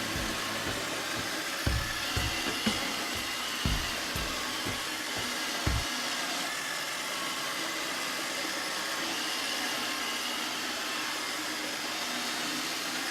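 iRobot Roomba robot vacuum running, its motors and brushes giving a steady whir, with a few short low knocks in the first six seconds.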